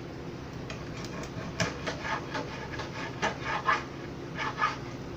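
A knife cutting the head off a whole fish: a string of about ten short, irregular cutting strokes, starting about a second and a half in and stopping near the end.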